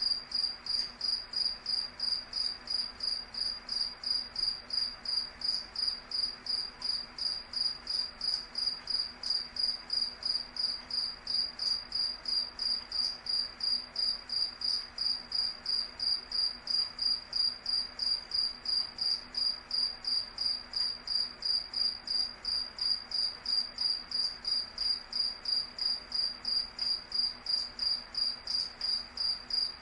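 A cricket chirping steadily, one high clear note repeated about three times a second.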